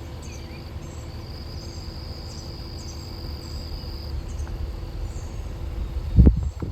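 Outdoor insect ambience: a steady high insect drone that stops about four seconds in, with short high chirps repeating about twice a second over a low rumble. A loud thump comes about six seconds in.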